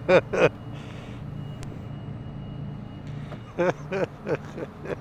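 Motorcycle engine idling with a steady low hum, with short bits of talk at the start and again about three and a half seconds in.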